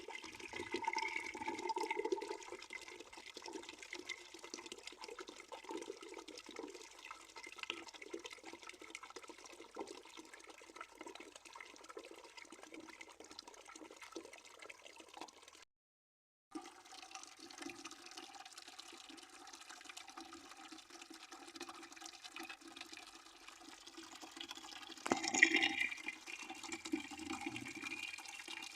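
Water running steadily into a bucket as it fills, with the sound cutting out completely for under a second just past halfway. About three-quarters through there is one short, much louder burst of noise.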